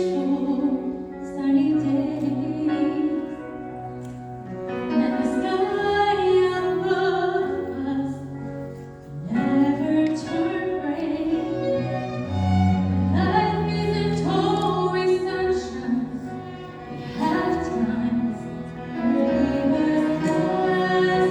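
A slow song sung by female voices with vibrato, over sustained low accompaniment notes, in phrases of a few seconds each.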